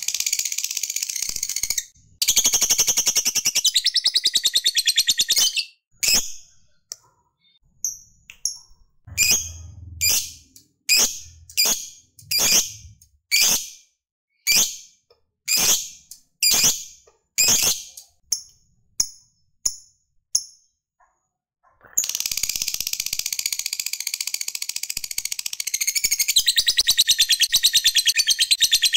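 Lovebird ngekek song: rapid high-pitched chattering trills, then a run of single sharp chirps about two a second, then a long unbroken chattering trill starting about three-quarters of the way through.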